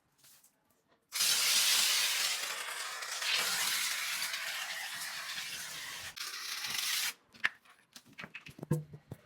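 A loud spray hiss from a car-wash nozzle, starting suddenly about a second in and cutting off abruptly about six seconds later, followed by a few small clicks and knocks.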